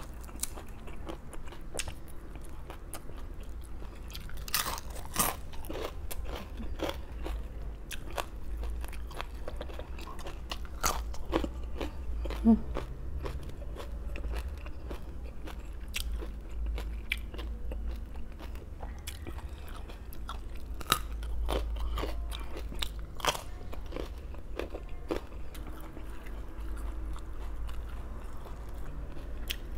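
Close-miked eating of crunchy raw vegetables: crisp bites and chewing that crunch at irregular intervals, over a steady low hum.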